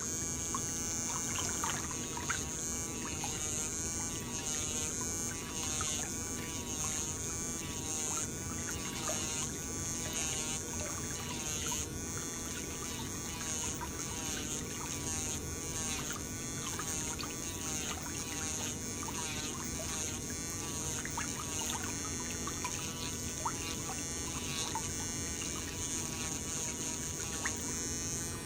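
Electric nail drill whirring against a toenail, its pitch dipping and recovering about once a second as it is pressed on and eased off.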